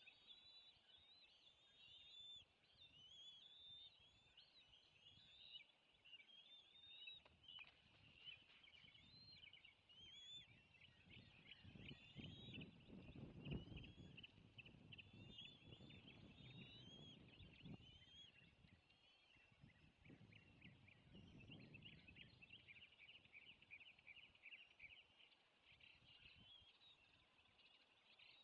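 Faint chorus of small birds chirping and twittering on and off, turning into a denser run of quick chirps in the last third. A low rumbling noise swells near the middle and again briefly later.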